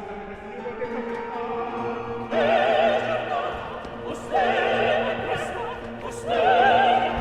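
Operatic singing with orchestral accompaniment: high voices with wide vibrato come in loudly three times over the sustained orchestra, about two seconds apart.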